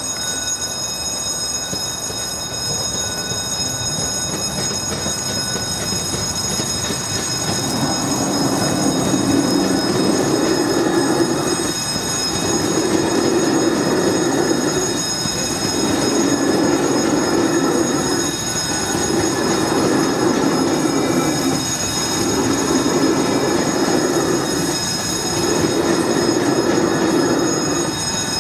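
NMBS InterCity train of double-deck coaches passing over a level crossing. From about a quarter of the way in, the rumble of its wheels rises and falls in a regular beat, roughly every three seconds, as each coach goes by. Steady high-pitched squealing tones run underneath.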